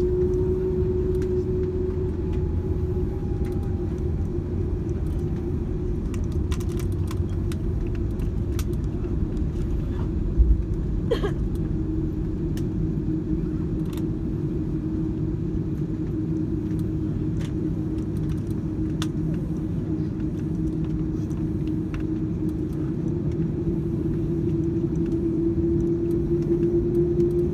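Airliner cabin noise on the ground after landing: the Airbus A330's engines whine steadily at a single pitch over a dense low rumble of the airframe rolling. There is one thump about ten seconds in, and the whine rises slightly near the end.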